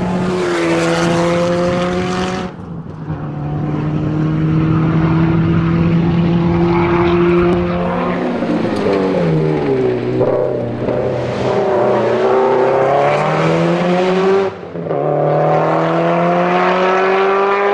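Subaru WRX STI rally car's turbocharged flat-four engine under hard acceleration. The pitch climbs through the gears, with brief breaks at the upshifts about two and a half seconds in and again near the end. Around the middle the pitch falls away as the car slows for a corner, then climbs again.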